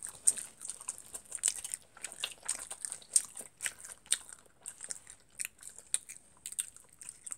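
A person chewing food close to the microphone: irregular sharp mouth clicks and smacks, several a second.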